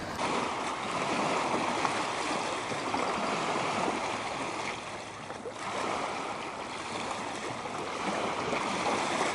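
Small waves lapping steadily at the water's edge, with a brief lull about five and a half seconds in.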